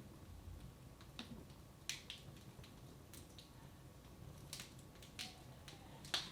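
Wood fire in a fireplace crackling, with irregular sharp pops; the loudest pops come about two seconds in and near the end.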